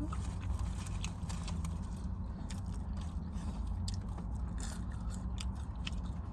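Close-up chewing and biting of fast food, with many small crunching clicks scattered throughout. A steady low hum runs underneath.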